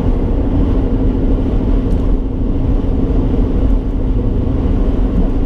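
A car running, with a steady low drone of engine and road noise and a constant low hum.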